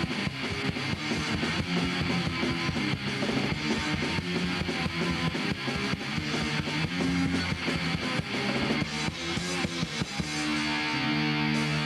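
Punk rock band playing an instrumental stretch of a song: electric guitars and bass over a drum kit. About ten seconds in, the guitars settle into held chords.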